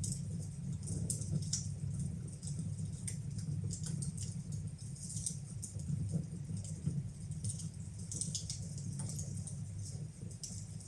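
Wood fire burning in a fireplace: irregular crackles and snaps over a steady low rumble from the flames.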